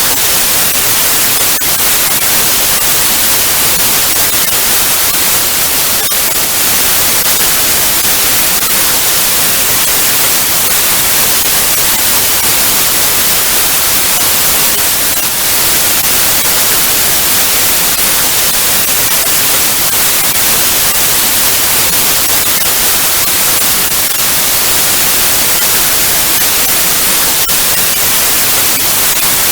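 Television static: a steady, loud hiss of noise with no tone, brightest in the highs, with faint crackling ticks here and there.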